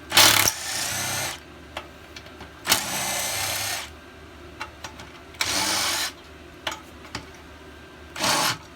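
A handheld power tool (drill or driver) run in four short bursts, spinning bolts off a small engine, with small metal clicks between the bursts.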